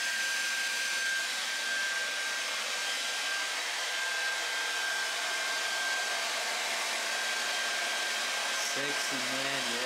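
Electric hair dryer running steadily, a rushing stream of air with a thin steady whine that fades out about two-thirds of the way through.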